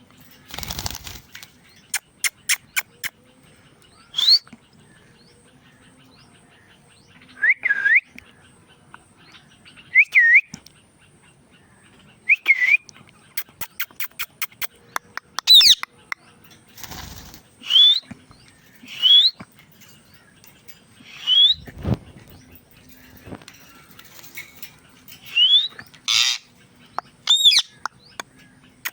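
Indian ringneck parakeet giving short, sharp whistled calls that bend up and down in pitch, about a dozen of them spread out with pauses between. They are mixed with quick runs of clicks and a few brief noisy bursts.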